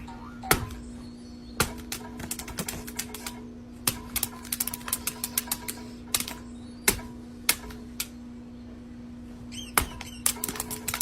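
Irregular clicks and taps, coming in quick runs from about two to six seconds in and again near the end, over a steady low hum.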